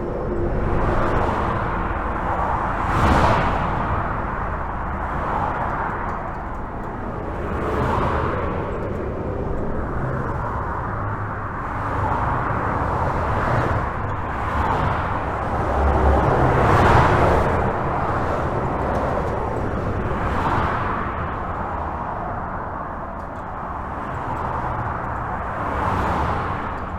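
Continuous highway traffic heard from under a bridge: a steady rush of tyre and engine noise with a low rumble, swelling as individual vehicles pass every few seconds.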